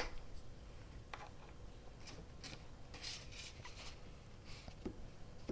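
Faint rustling and rubbing of paper being handled and smoothed on a tabletop, with one sharp click at the very start and a few soft scraping strokes after it.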